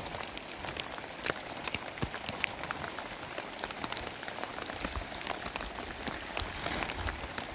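Heavy rain falling steadily, with many separate drops tapping sharply on a surface.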